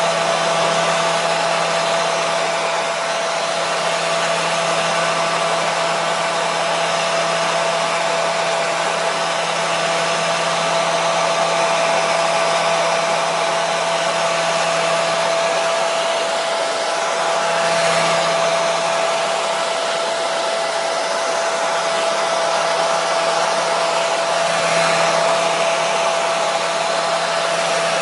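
Electric hair dryer running steadily at a constant speed: a dense airy rush with a steady motor whine over it, played as white noise for soothing a colicky baby.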